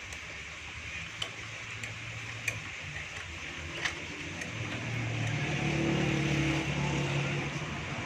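A vehicle engine runs in the background, growing louder for a couple of seconds past the middle and then easing off. Under it are a few sharp metal clicks from a spanner working the carburetor's mounting bolts.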